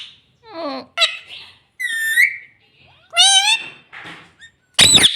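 Green parrot making a string of short chirps and wavering whistled calls, then a loud harsh screech near the end.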